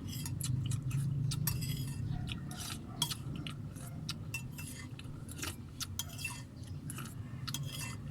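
Metal cutlery clinking and scraping against plates during a meal, many short light clicks at an irregular pace, over a steady low hum.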